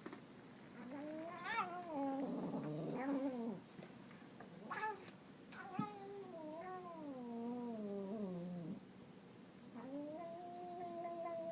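Domestic cat yowling in long drawn-out calls: a wavering one, a short one, a long call that slowly falls in pitch, and a last one held at a steady pitch.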